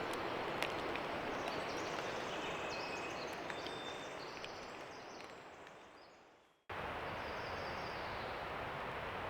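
Steady outdoor ambience: an even hiss with faint, short high chirps, fading out over a few seconds and then cutting in again abruptly about two-thirds of the way through.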